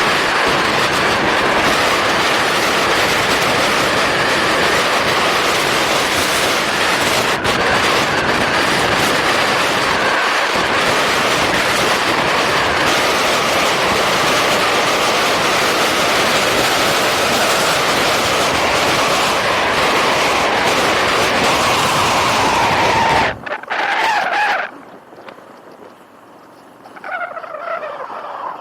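Motorcycle riding at speed: a loud, steady rush of wind and road noise over the microphone, with the engine's tone faint underneath. The rush drops off sharply about 23 seconds in, leaving a much quieter background with a short pitched sound near the end.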